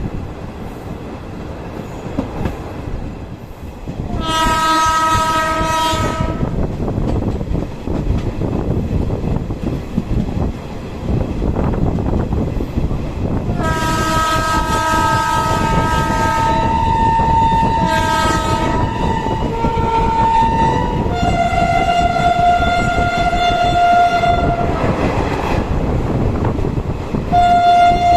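Indian Railways locomotive horn sounding several times over the steady rumble of a moving train: a blast about four seconds in, a longer one starting around fourteen seconds that changes pitch around twenty-one seconds, and another starting near the end.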